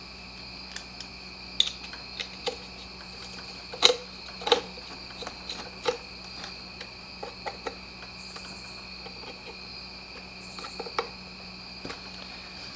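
Scattered light clicks and knocks of a small two-stroke leaf blower and its parts being handled during a repair, the sharpest about four seconds in, over a steady high-pitched background whine and low hum.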